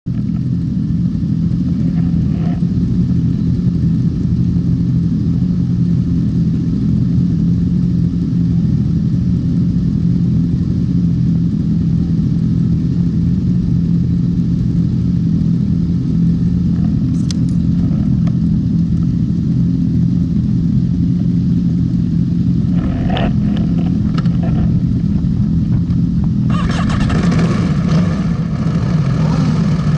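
Sport motorcycle engine idling steadily, heard from a camera mounted on the bike's fairing. A few light clicks come about two thirds of the way in, and a louder rushing noise joins near the end.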